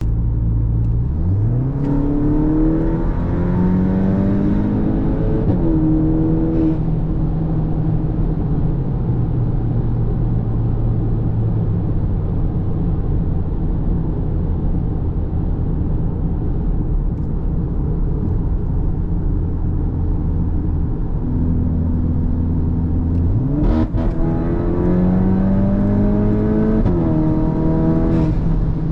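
Cupra Formentor VZ's turbocharged 2.0 TSI four-cylinder engine, heard through a REMUS exhaust, pulling hard under acceleration. The revs climb over the first few seconds and then drop at a gear change. After a long steady cruise, a second pull starts near the end with another upshift.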